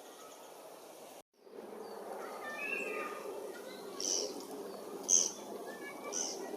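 Short, high bird calls, three of them about a second apart, with the middle one the loudest, preceded by a few softer whistled notes, over a steady low outdoor background. The sound drops out briefly about a second in.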